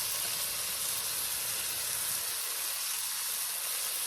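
Leftover steak-and-vegetable fajita mixture with rice and black beans sizzling steadily in a hot iron wok, a continuous high hiss.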